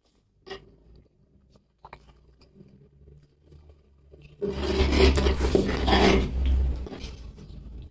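Loud close-miked eating sounds: a few soft clicks, then a burst of mouth noise about four and a half seconds in that lasts roughly two and a half seconds before tailing off.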